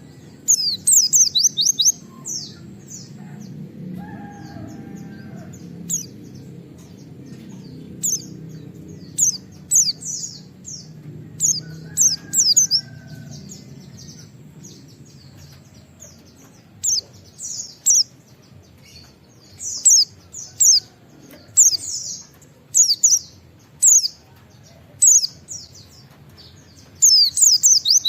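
White-eye (pleci) calling in quick clusters of high, sharp falling 'wit-wit' notes, a burst every second or two. A low steady rumble sits underneath and fades after the middle.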